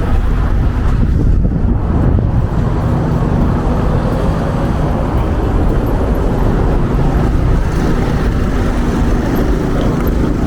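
Street traffic noise under wind rumbling on the microphone. It is loud and steady throughout, with a faint engine hum.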